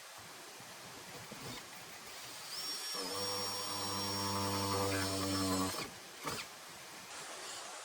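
A small motor running at a steady pitch for about three seconds, then stopping, with a thin high whine above it.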